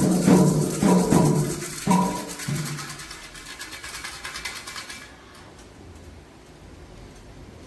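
Candomblé ritual percussion, hand drums with a shaken rattle, winding down. The drum strokes stop about two and a half seconds in, and the rattle carries on until it stops about five seconds in, leaving only faint room noise.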